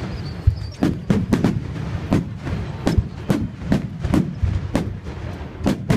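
Fireworks bursting in quick succession: a dozen or so sharp bangs at irregular spacing, roughly two a second, over a continuous low rumble.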